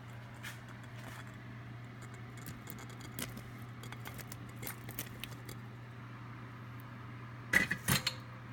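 Light scattered clinks and taps of a utensil against a pan as cooked shrimp are added to Alfredo sauce, over a steady low hum. A quick cluster of louder clacks comes near the end.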